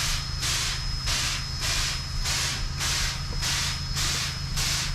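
Baldwin 4-6-0 narrow-gauge steam locomotive giving off steam in regular hissing puffs, about one and a half a second, over a thin steady high hiss.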